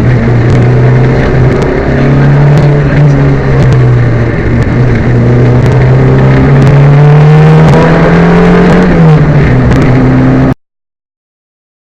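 Peugeot 205 rally car's engine running hard and loud, its pitch rising and falling with throttle and gear changes; the car is misfiring. The sound cuts off abruptly about ten and a half seconds in.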